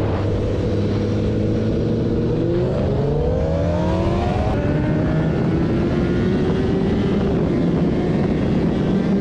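Motorcycle engine running. Its pitch rises as it speeds up from a little over two seconds in, then holds steady over a noisy rush.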